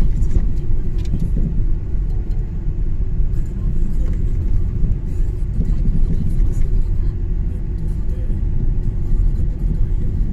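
Steady low rumble of a car driving on a snow-covered road: tyre and engine noise.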